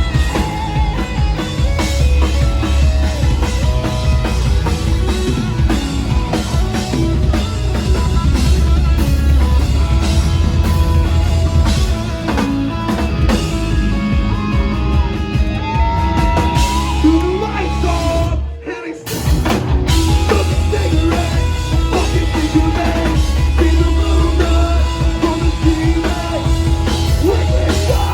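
Live rock band playing loud, with drum kit and guitars, breaking off into a sudden short stop about two-thirds of the way through before coming back in full.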